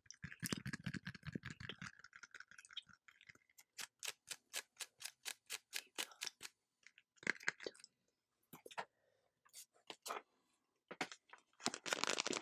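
Close-up ASMR clicking and tapping right at the microphone. Scattered single clicks come first, then a steady run of quick clicks at about four a second, then a few more clicks near the end.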